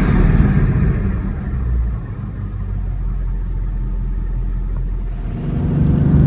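2016 Ford Mustang GT's 5.0L V8 engine and exhaust on the move: the engine sound falls away from a hard pull in the first two seconds, runs low and steady for a few seconds, then builds again near the end.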